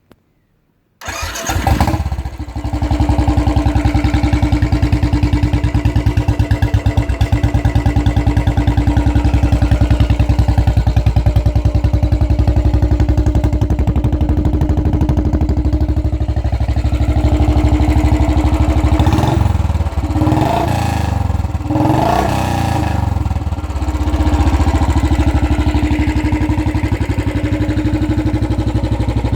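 Royal Enfield Classic Desert Storm single-cylinder engine starting about a second in through a Long Punjab aftermarket exhaust, then idling steadily. It is revved in a few short blips around two-thirds of the way through, then settles back to idle.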